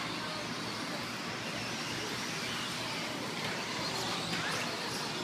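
Electric RC stock trucks racing around a dirt track: a steady wash of motor whine and tyre noise, with a short rising motor whine about four seconds in.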